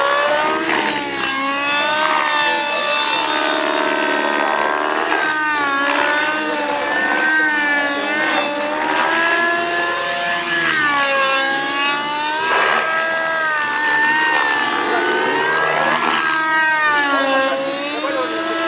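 Radio-controlled model helicopter in flight, its motor and rotor pitch continually rising and falling as it maneuvers.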